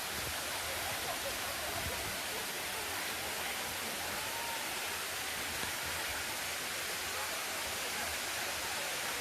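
Steady rush of a waterfall, water cascading over limestone rock.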